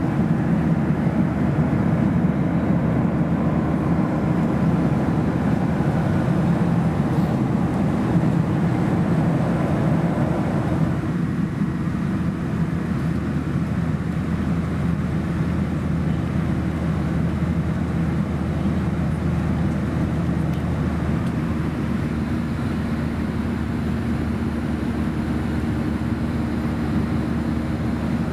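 Steady cabin noise of a Boeing 737-800 in flight: the constant rush of air and the hum of its CFM56 turbofan engines heard from a window seat. The sound turns a little duller about eleven seconds in.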